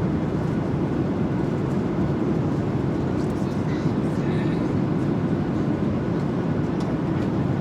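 Steady low rumble of an airliner cabin in flight.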